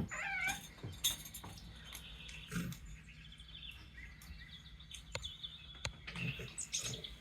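Small birds chirping and calling in short, quick phrases, with scattered light clicks and a steady low hum underneath.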